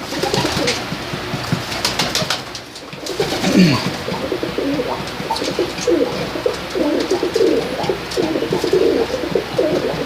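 Domestic tippler pigeons cooing, several birds overlapping in low, wavering coos that fill in from about three and a half seconds in. Before that come a few sharp clicks.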